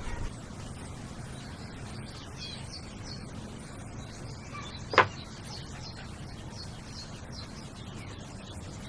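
Small birds chirping in the background, with one sharp knock about five seconds in.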